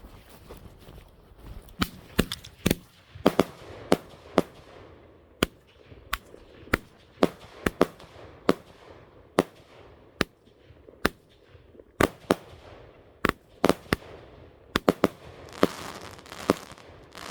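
A consumer firework cake firing: a long irregular string of sharp bangs, roughly two a second, each with a short echo, and hissing and crackling between the shots.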